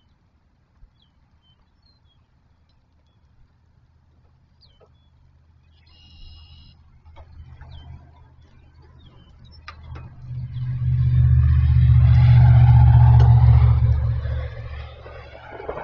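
A vehicle passing by, its engine and tyre noise swelling to a loud peak about twelve seconds in, then fading. Before it, birds chirp faintly.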